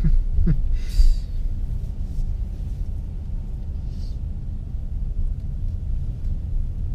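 Steady low rumble of a car moving slowly, heard from inside the cabin, with a short brief noise about a second in.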